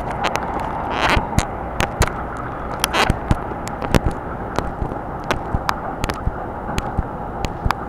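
Electric train running on the rails: a steady rumble with a faint steady whine, crossed by frequent, irregular sharp clicks.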